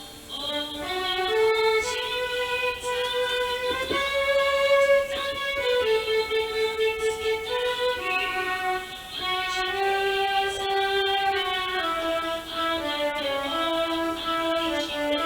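Yamaha Electone electronic organ playing the intro of a gentle pop song: a sustained melody of long held notes moving stepwise over held chords.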